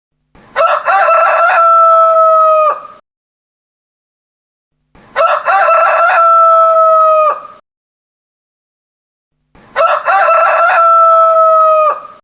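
Rooster crowing three times, about four and a half seconds apart. Each cock-a-doodle-doo starts with short choppy notes and ends in a long held note that drops off at the end, with dead silence between crows. The three crows are identical, as if the same crow is repeated.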